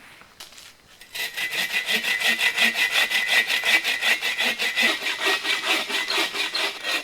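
Agawa Boreal 24 folding bow saw cutting through dry, dense dead oak in fast, even back-and-forth strokes, starting about a second in.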